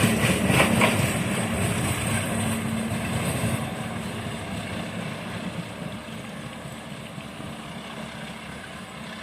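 Bogowonto passenger train receding after passing: a low rumble and hum dying away, with a few wheel clacks about the first second.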